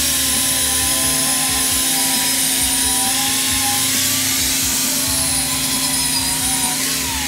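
Handheld angle grinder running on the steel auger shaft: a steady motor whine over loud grinding hiss. Near the end the whine briefly rises, then falls as it winds down.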